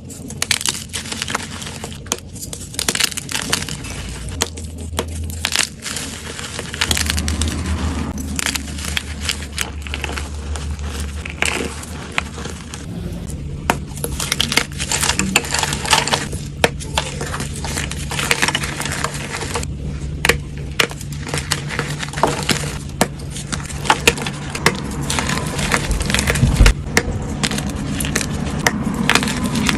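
Dyed gym chalk blocks being crushed and crumbled close to the microphone: a dense, irregular run of crisp crunches and crackles.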